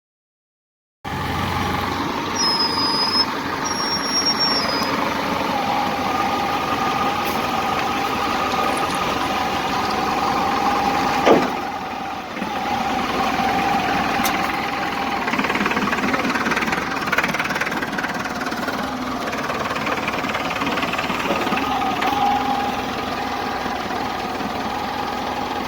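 Tractor engine running steadily with a held whine, and one sharp knock about eleven seconds in.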